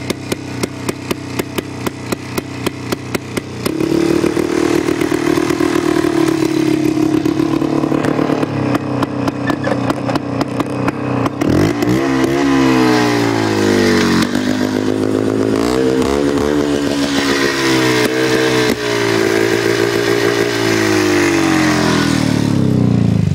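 1989 Polaris Trail Boss 250's single-cylinder two-stroke engine running through a new muffler on a homemade exhaust pipe. It idles unevenly at first, which the owner calls a bit of an idling problem. It then runs faster and is revved up and down several times before it winds down at the very end.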